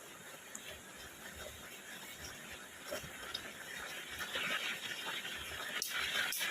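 Steady rain falling, growing a little louder toward the end, with a couple of sharp clicks near the end.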